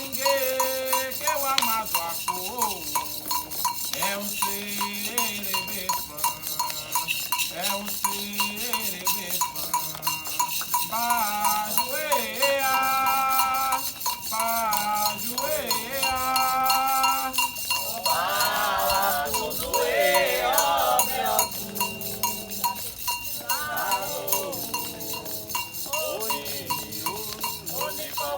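Candomblé ritual music: a metal agogô bell struck in a fast, steady rhythm, with singing voices chanting over it in phrases that come and go.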